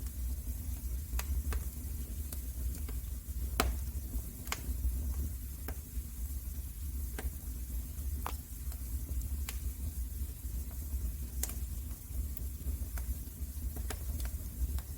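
Wood fire crackling in a fireplace: irregular sharp pops and snaps over a steady low rumble, with one louder pop a few seconds in.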